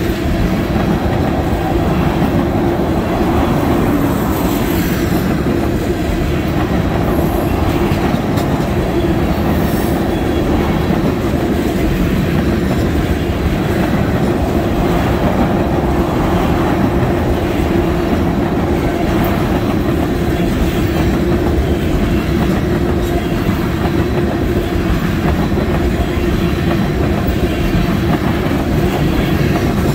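Empty railroad tank cars of a freight train rolling past, a steady rumble and clatter of wheels over the rails, with a steady low tone running under it.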